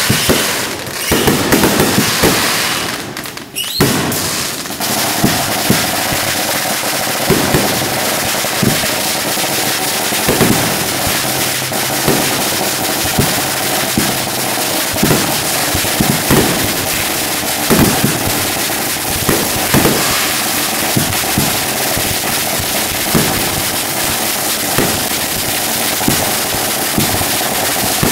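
Fireworks going off at close range: a steady run of sharp bangs from launches and bursting shells over constant hissing and crackle, with a brief lull about three or four seconds in.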